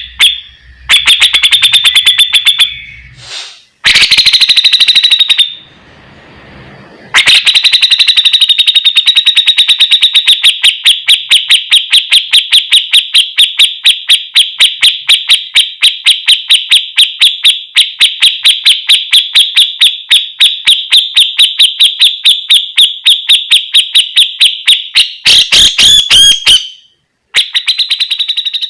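Cucak jenggot (grey-cheeked bulbul) song from a songbird master recording: a few short broken phrases, then a long, very fast run of identical sharp high notes, about five a second, lasting some eighteen seconds before breaking off near the end.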